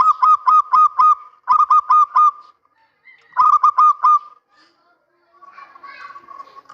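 Male zebra dove (perkutut) cooing: three bursts of quick, evenly spaced staccato coos, about four or five a second, with short pauses between them. A fainter, mixed background sound comes in near the end.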